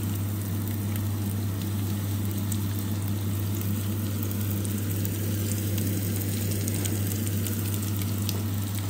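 Chopped onions and green chillies sizzling gently in sunflower oil that has only just begun to heat in a frying pan, with faint crackles over a steady low hum.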